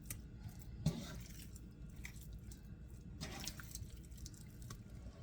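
Raw chicken thighs being turned in a wet, sticky coating in a bowl: faint squishing and dripping, with a light knock about a second in.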